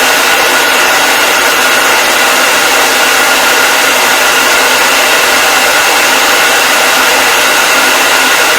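Electric hair dryer running steadily: an even rushing of blown air with a faint motor whine on top, unchanging throughout.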